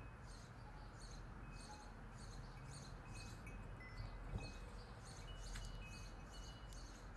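Faint, rhythmic high-pitched chirping in the background, two to three chirps a second, with a single sharp click a little after four seconds in.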